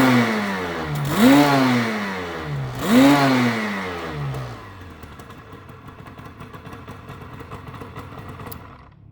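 1980 Suzuki RG125E's 125cc two-stroke single-cylinder engine being revved with the bike standing still: about three quick throttle blips, each rising sharply in pitch and falling back slowly, then settling to a steady idle for the second half.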